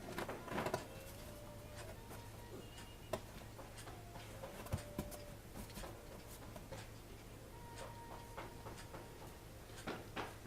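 Faint soft clicks and ticks of a kitten licking its fur while grooming, over a low steady room hum. The clicks come in clusters at the start and again near the end.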